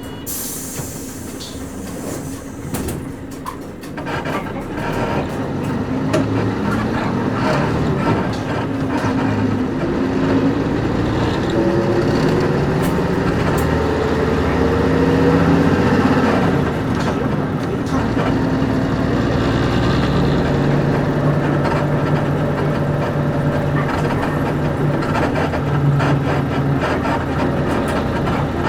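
Diesel engine of a KC-UA460LSN bus (PG6 engine) heard from inside the cabin as the bus pulls away and accelerates: the engine note rises in pitch through the gears of its five-speed manual gearbox, then drops and settles into a steady run about halfway through. A short hiss comes right at the start.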